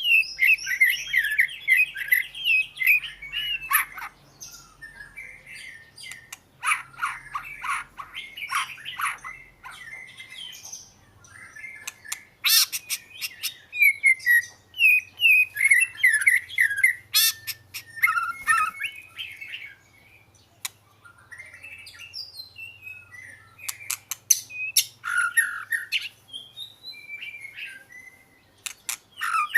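Oriental magpie-robin singing: a varied run of whistled and chattering phrases broken by short pauses.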